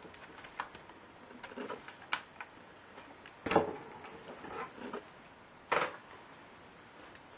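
Scattered light clicks and taps from a laptop being handled and taken apart, with two louder knocks about three and a half and six seconds in.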